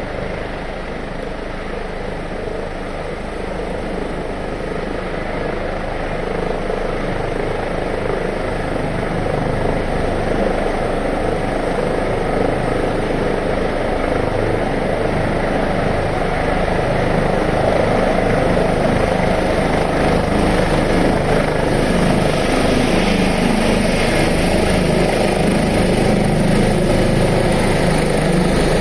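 Rescue helicopter's turbine engines and rotor running, growing steadily louder over the first twenty seconds or so and then holding, with a high turbine whine strengthening in the second half.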